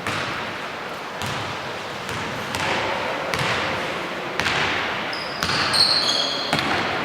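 A basketball bouncing on the court about once a second, echoing in a gym, with sneakers squeaking in short high chirps from about five seconds in.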